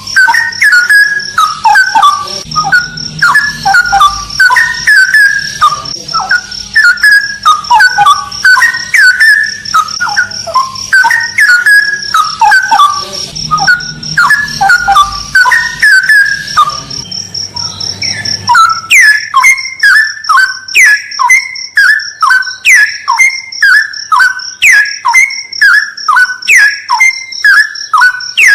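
Straw-headed bulbul (cucak rawa) singing loudly: rich, bubbling warbled phrases, then, about two-thirds of the way in, a run of quick repeated down-slurred notes, about two a second. A steady high-pitched whine runs underneath.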